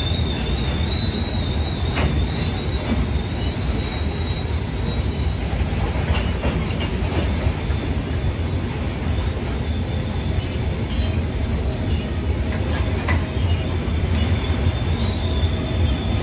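Freight train of aggregate hopper cars rolling past: a steady rumble of steel wheels on rail with a thin, high-pitched wheel squeal running over it and a few sharp clicks.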